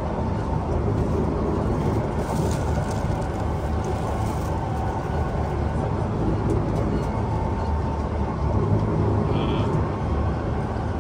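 Kawasaki C151 metro train running at speed, heard from inside the car: a steady rumble of wheels on rail and running gear, with a brief higher hiss between about two and four seconds in.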